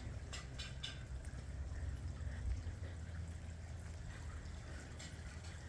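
Faint trickling water, over a low steady rumble.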